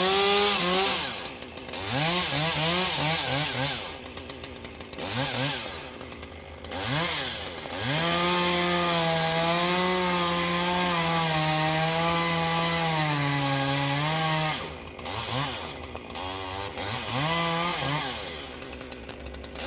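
Two-stroke chainsaw cutting into a fir tree: short revs up and down, then a long full-throttle run of about six seconds, its pitch wavering under the cut, then more short revs near the end.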